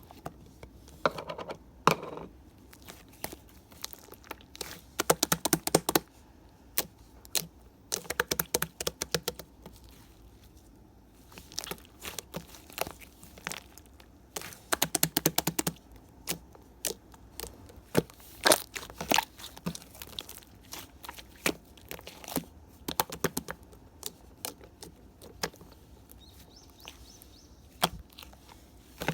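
Red bean slime being pressed and pulled by hand, giving clusters of sharp crackles and clicks every few seconds, with quieter single clicks in between.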